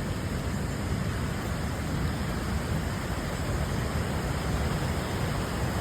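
Waterfall rushing: a steady, even noise of falling river water.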